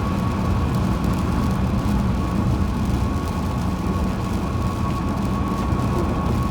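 Car driving on a highway, heard inside the cabin: a steady low rumble of road and tyre noise with a thin, steady whine above it.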